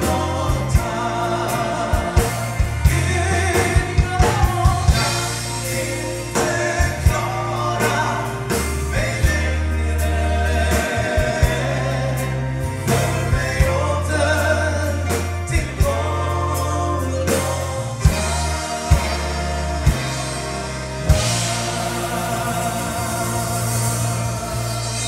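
Gospel song with a vocal group singing in harmony over a steady bass line and sharp drum hits.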